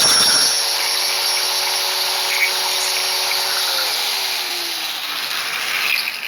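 High-speed power tool cutting the welds on a steel exhaust-pipe end cap. Its motor runs at a steady high pitch, then winds down and fades about four seconds in.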